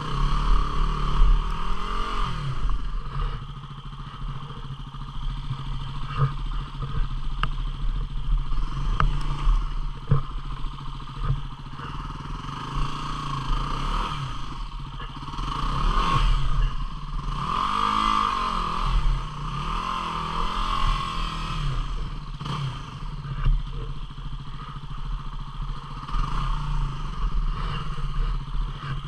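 Single-cylinder 250 cc dual-sport motorcycle engine ridden on a rough trail, its revs rising and falling again and again with the throttle. Scattered knocks sound as the bike goes over the ground.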